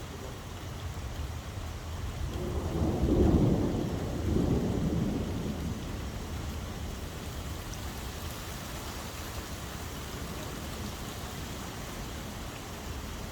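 Steady rain falling, with a low roll of thunder that swells about two seconds in, peaks twice and dies away a few seconds later.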